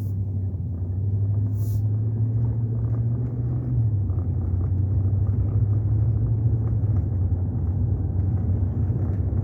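Vehicle engine and road rumble heard from inside the cabin while driving, a steady low drone whose pitch steps down slightly about four seconds in.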